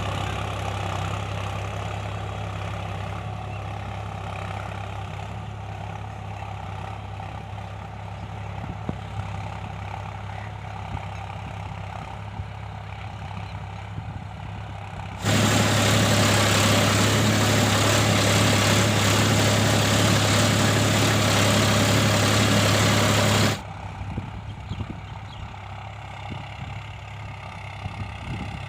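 Mahindra Yuvo Tech+ 415 DI tractor's four-cylinder diesel engine running steadily with a low hum. From about halfway through, it is much louder for some eight seconds, starting and stopping abruptly.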